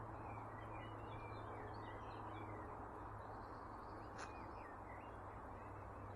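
Small birds chirping and twittering, faintly, over a steady low background noise, with a single sharp click about four seconds in.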